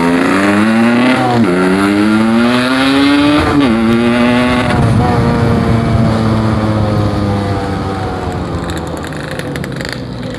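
Yamaha RX-King two-stroke single, bored out to 150 cc, accelerating: the revs climb, drop at a gear change about a second and a half in, climb again and drop at a second shift just before four seconds, then hold and slowly fall as the bike cruises.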